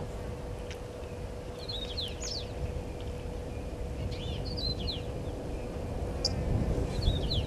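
A small bird calling in three short phrases of quick up-and-down chirps, a couple of seconds apart, over a steady low rumble of outdoor noise and a faint steady hum.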